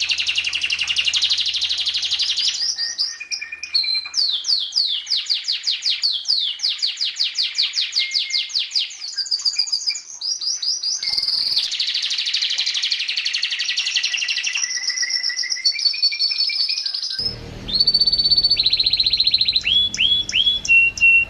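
Domestic canary singing a long, continuous song of rolling trills and rapidly repeated high notes, switching from one trill type to the next every second or two. About 17 seconds in, a low background rumble comes in, and the song goes on with a few quick downward-sweeping notes and a short held whistle.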